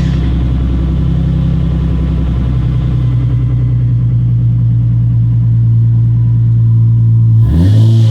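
2007 Ford Mustang's 4.0-litre V6 idling steadily through a generic aftermarket auto-parts-store muffler. Near the end comes one quick blip of the throttle, the pitch rising and falling back.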